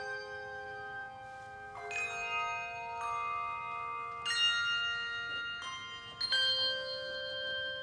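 Handbell choir ringing slow chords, each chord left to ring for a couple of seconds before the next is struck, three new chords in all.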